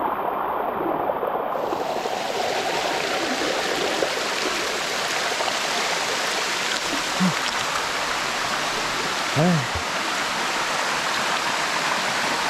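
Water of a cascading waterfall rushing steadily over rocks. Two short voice sounds come through, about seven and nine and a half seconds in.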